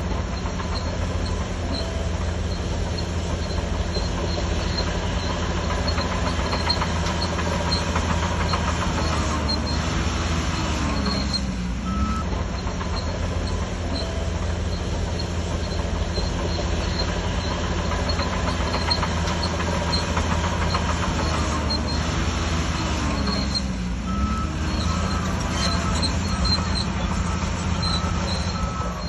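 Shantui DH17C3 crawler bulldozer working: a steady diesel engine under load with the clatter of steel tracks. The engine note dips and comes back up twice, once a little before halfway and again near the end.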